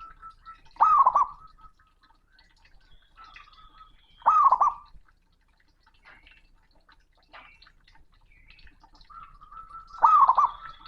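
Male zebra dove (perkutut) cooing loudly: three short bursts of rapid looping coos, about a second in, around four and a half seconds, and near the end.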